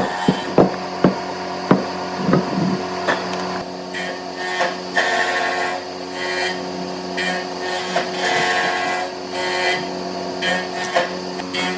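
A workshop power tool runs with a steady hum while wood is worked. There are several sharp knocks in the first few seconds, then a rasping pass that repeats about every second and a half.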